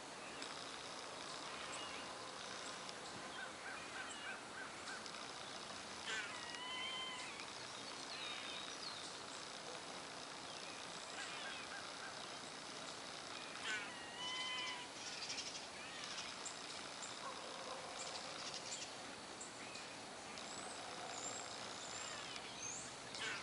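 Outdoor pond ambience with birds calling: a short pitched call repeats twice, several seconds apart, with fainter high chirps between.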